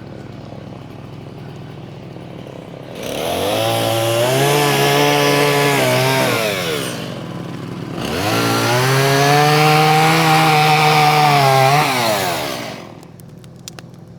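A small gas engine running low, then revved up to high speed and back down twice, each rev lasting about three to four seconds.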